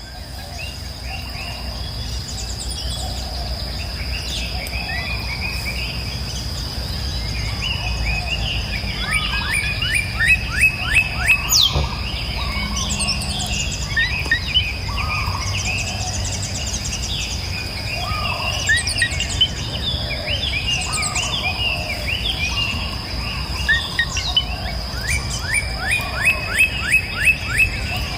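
Several songbirds singing and chirping, with fast trills of rapidly repeated notes about a third of the way in and again near the end. Under them runs a steady high-pitched insect buzz and a low, even rush of flowing river water.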